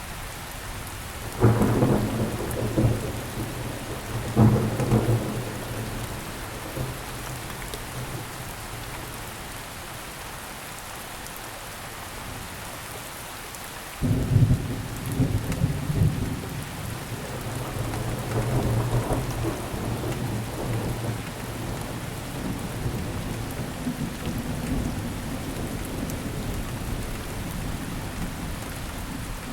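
Steady heavy rainfall with thunder: two thunderclaps a few seconds apart near the start, rumbling away, then a sudden loud clap about halfway through that rolls on for several seconds before fading under the rain.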